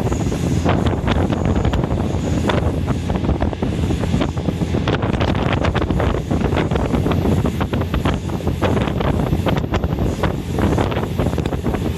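Passenger train running on the State Railway of Thailand's Suphan Buri line, heard from inside the car: a steady low rumble with wind rushing past and irregular clattering knocks and rattles.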